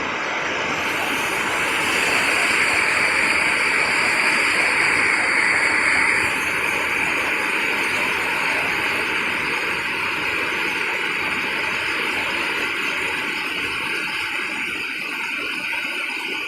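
Heavy rain pouring down in a steady hiss, a little louder for the first several seconds and easing slightly after about six seconds.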